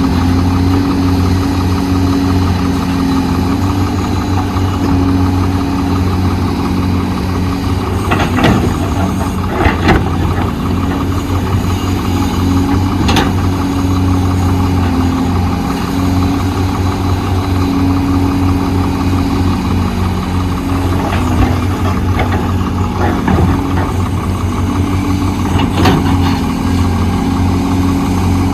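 Heavy diesel engine of an excavator running steadily, with a few sharp clanks and knocks from the working machine, two of them close together about a third of the way in.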